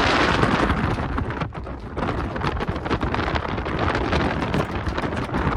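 Wind buffeting the microphone: a rough, fluttering rush with heavy low rumble, easing briefly about a second and a half in.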